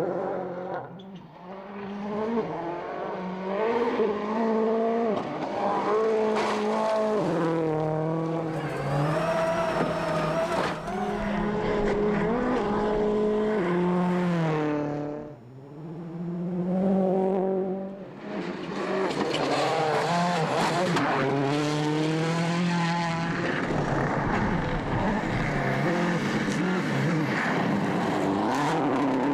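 2007 World Rally Car's turbocharged four-cylinder engine driven hard on a stage, its pitch climbing through each gear and dropping back at every shift. There are brief lifts off the throttle about a second in and twice more around the middle.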